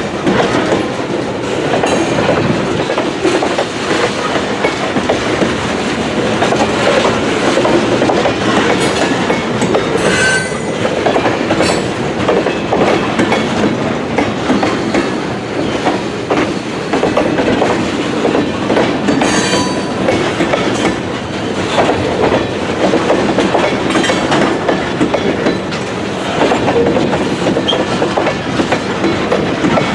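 Freight cars (tank cars, a lumber flatcar and covered hoppers) rolling past, their wheels clacking over rail joints amid a continuous rumble and rattle. Twice a brief high squeal cuts in.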